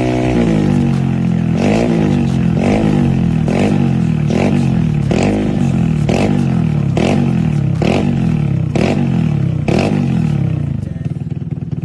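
Vespa automatic scooter's single-cylinder engine through a Rob1 stainless steel racing exhaust, revved in short throttle blips about once a second, each rising and falling back, then settling to idle near the end.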